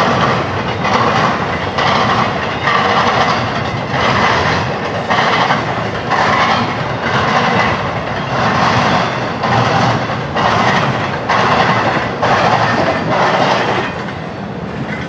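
Cars of a CSX or Norfolk Southern freight train rolling past, their wheels clicking over the rail joints in an even rhythm about once a second.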